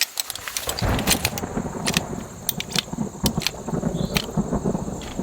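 Thunder rumbling low from about a second in, with scattered sharp taps and clicks over it.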